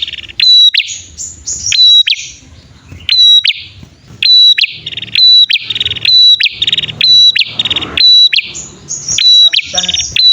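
Prenjak birds, male and female, calling together: loud, rapid sharp high chips several times a second, interleaved with buzzy rattling trills, repeated over and over.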